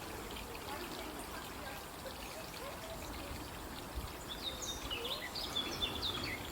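Water trickling and flowing steadily in a small stream. A bird chirps in a quick run of short high notes over the water in the second half.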